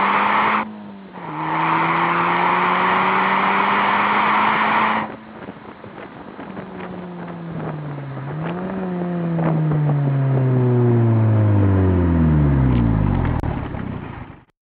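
Audi S3 Sportback quattro's turbocharged 2.0 TFSI four-cylinder through a Ragazzon stainless rear silencer with twin 80 mm round tips, pulling hard with a gear change about a second in, then lifting off about five seconds in. After one short blip the engine note falls away steadily, and the sound cuts off suddenly near the end.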